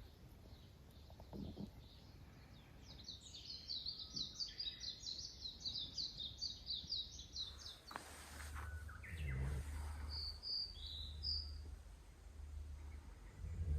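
A small songbird singing a fast trill of high, evenly repeated notes for about four seconds, then a few short chirps. A low rumble comes in about halfway through.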